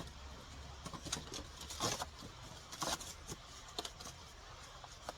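Scattered rustles and sharp crackles, a few at irregular intervals, from paper and firewood being handled while a campfire is laid and lit.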